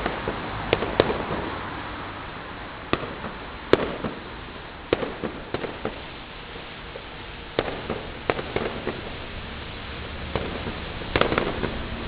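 Fireworks going off on bonfire night: a dozen or so sharp bangs and crackles at irregular intervals over a steady background hiss, with a quick cluster of bangs near the end.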